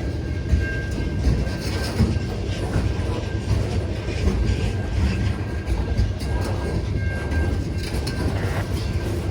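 Freight train cars rolling past: a steady low rumble of wheels on rail with irregular clicks over the rail joints and a faint, thin high tone.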